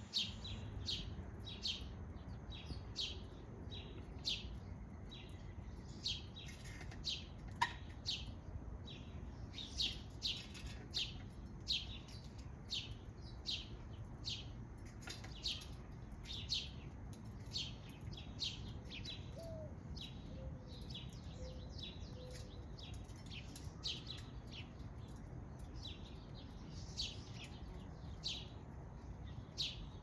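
A small songbird chirping over and over, with short sharp chirps coming roughly one to two a second, over a steady low background rumble.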